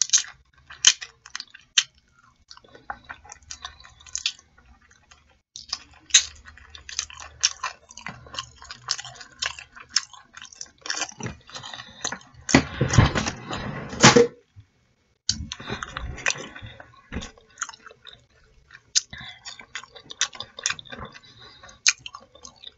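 Close-up eating sounds of a person chewing saucy chicken in mumbo sauce with french fries: wet smacking and squishing mouth sounds, with many short clicks. The sound grows louder and denser a little past halfway, then stops briefly before the chewing resumes.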